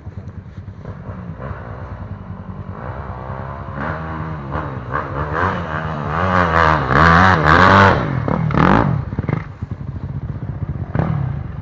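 Trail motorcycle engine running, then revved up and down repeatedly, loudest in the middle, with a few sharp knocks after the revving eases.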